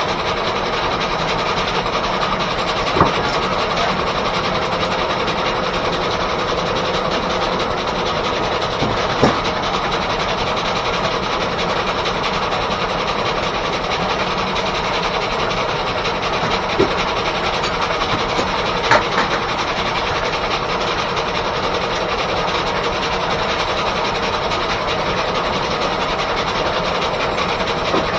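Steam-engine-driven R.R. Howell sawmill running steadily, a continuous mechanical clatter with a few sharp knocks.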